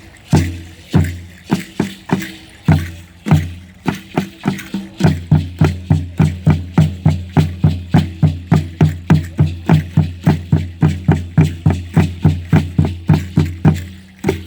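Low-pitched ceremonial drum beating for a Mexica dance, in slow uneven strokes that break about five seconds in into a fast steady beat of about four strikes a second, with rattles shaking between the beats.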